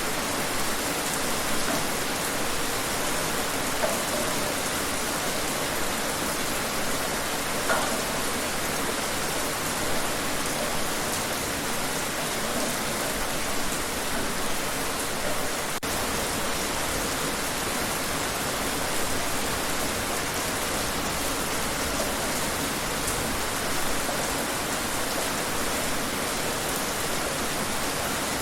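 Steady rain falling outdoors, a dense even hiss with occasional individual drops ticking more loudly.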